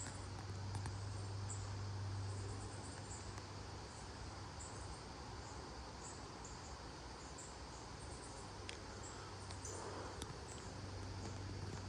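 Insects chirping in short, high-pitched pulses that come in irregular groups, over a steady hiss of outdoor noise and a constant low hum.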